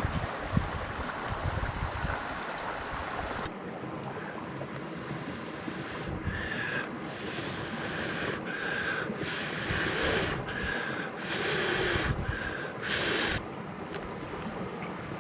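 Mountain stream water rushing steadily, with wind buffeting the microphone for the first few seconds. After an abrupt change a few seconds in, a run of short hissing surges comes roughly once a second.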